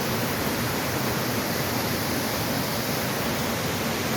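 Waterfall rushing steadily, a dense even roar of falling water close by.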